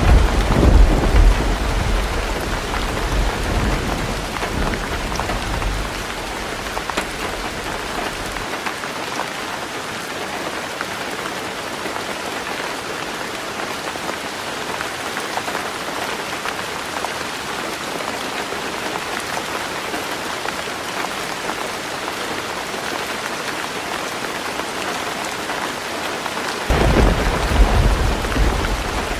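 Heavy rain falling steadily on a roof. Low thunder rumbles at the start, fades out after several seconds, then rumbles again near the end.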